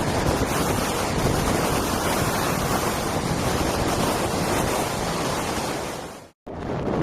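Strong wind buffeting the microphone and water rushing past a sailboat's hull as it sails close-hauled in strong wind, a loud, steady noise. It cuts out abruptly for a moment about six seconds in, then resumes.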